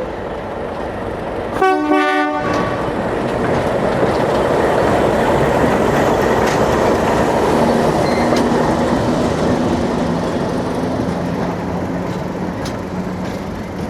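The Cockle Train heritage train gives a short whistle blast about two seconds in, then its running noise swells loud through the middle and eases toward the end.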